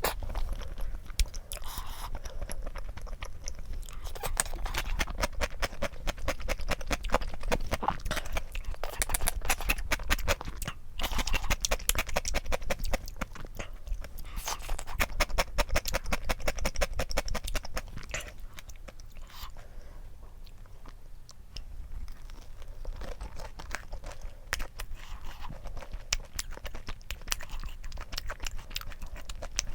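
Close-miked chewing and wet mouth clicks of someone eating mala rosé tteokbokki, a rapid run of small clicks that eases off for a few seconds past the middle.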